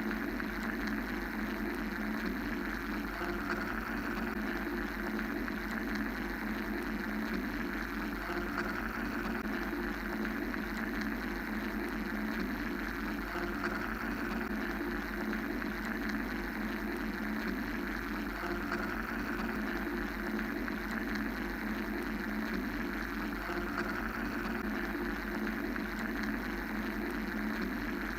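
Steady mechanical white-noise drone: a constant low hum under a hiss that slowly swells and eases, with no breaks.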